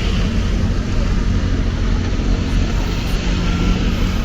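Steady wind rumble on the microphone over a continuous wash of street traffic and wet road noise.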